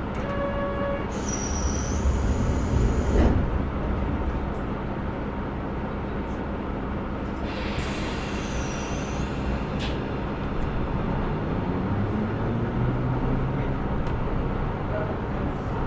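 Inside a KiHa 125 diesel railcar: a short electronic beep, then two long hisses of air from the pneumatics a few seconds apart, over the steady low hum of the idling diesel engine. The engine note rises near the end as the railcar starts to pull away.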